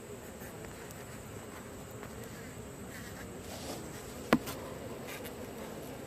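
Honey bees buzzing steadily around an opened hive, with one sharp click a little over four seconds in.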